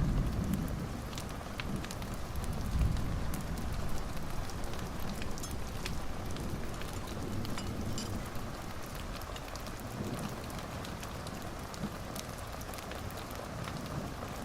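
Fireplace fire crackling: scattered sharp pops over a steady hiss, with a low rumble that swells near the start and again about three seconds in.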